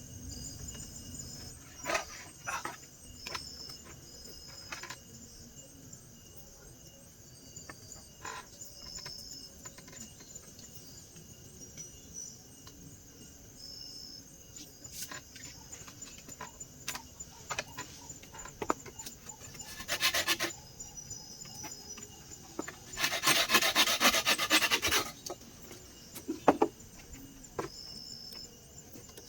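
Wood being rubbed or rasped: scattered small knocks and clicks, a short scrape about twenty seconds in, then a longer scraping run of about two seconds near the end. Brief high chirps recur in the background.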